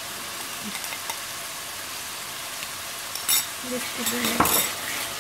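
Ginger-garlic paste frying in hot oil with onion and tomato masala in a steel pan, a steady sizzle, while a wooden spatula stirs it. There are a few louder scrapes of the spatula against the pan in the second half.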